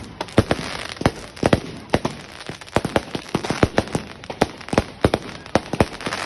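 Fireworks display: a rapid, irregular string of sharp bangs and cracks, several a second, from shells bursting overhead.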